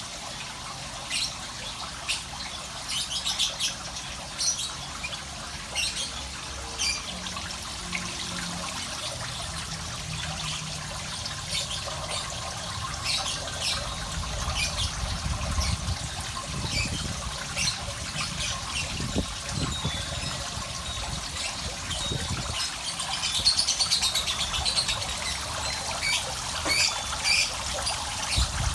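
Small bird chirping in short, repeated calls over a steady trickle of running water, with some low rumbling in the second half.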